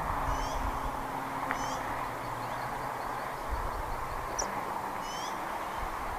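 A bird giving short, high-pitched chirping calls, each a quick cluster of notes, repeated every second or so over a steady background hiss.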